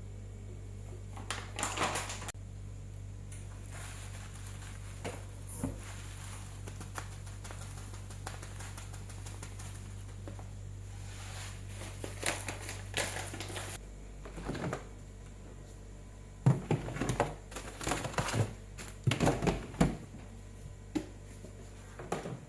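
Kitchen work: scattered clicks and knocks of utensils and dishes, in clusters near the start, around the middle and through the last few seconds, over a steady low hum whose level drops a little after about two thirds of the way.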